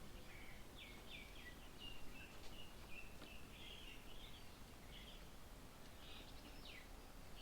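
Birds chirping faintly, a busy string of short chirps and quick falling notes, over a low steady outdoor background noise.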